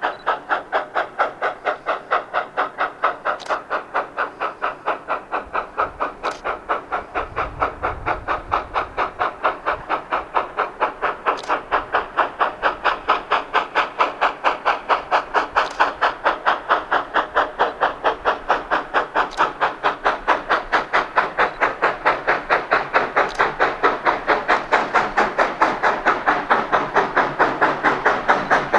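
Oil-fired narrow-gauge steam locomotive 493, a K-37 2-8-2, working hard with a steady, rhythmic exhaust chuff of about two to three beats a second, growing louder as it draws near.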